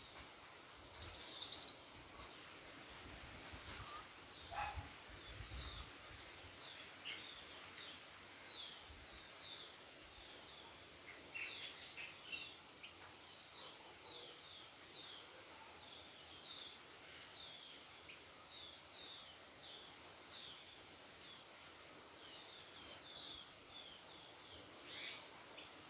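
Faint bird chirps, short high calls repeating every half second or so, over low background noise. A few low thuds come in the first few seconds.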